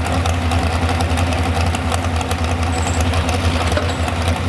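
Modified 4x4 pulling truck's engine idling steadily with a low, even hum.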